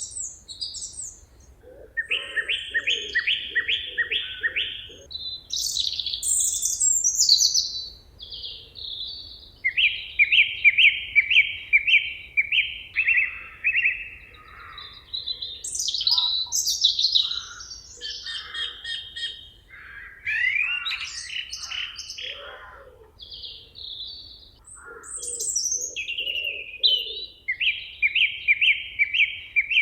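Several songbirds singing at once in a forest chorus. Phrases overlap and alternate, among them repeated fast trills and high sweeping notes. Short runs of low, evenly pulsed notes come in now and then.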